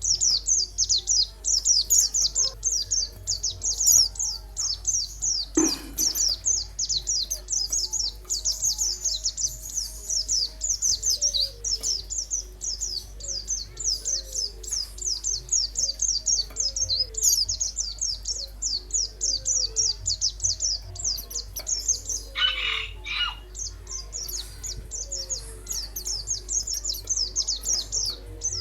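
Songbird singing a fast, unbroken run of high chirps, many notes a second, with a few brief calls of another pitch mixed in.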